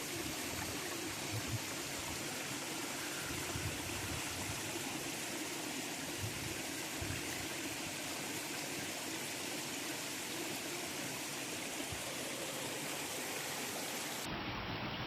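River water flowing, a steady rushing of the stream, with a few soft low knocks in the first half.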